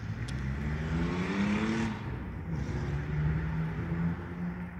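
A car engine accelerating, its pitch rising for about two seconds, then settling into a steady hum, over a low rumble of background noise.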